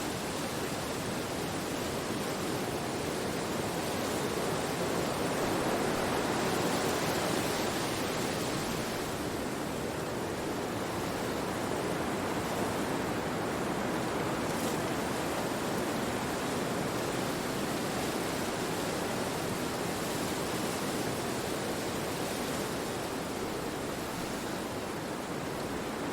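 Wind blowing through forest trees: a steady rush of leaves that swells a little several seconds in and then eases.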